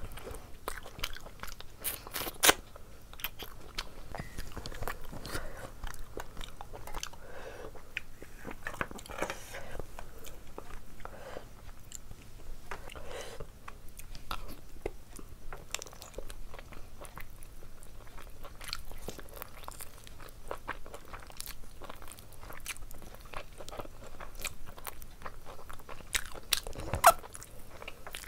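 Close-up eating sounds: a person chewing and biting bone-in curry meat eaten by hand, with a run of short clicky bites; the loudest bites come about two seconds in and near the end.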